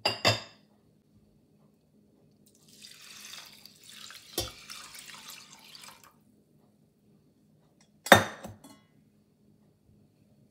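Kitchen clinks of glass or ceramic, then about three seconds of water pouring with a sharp knock partway through, and one more loud clink near the end.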